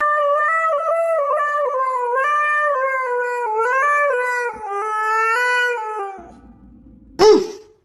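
A dog howling in one long wavering call that steps up and down in pitch for about six seconds, followed by a short, sharp yelp-like call about seven seconds in.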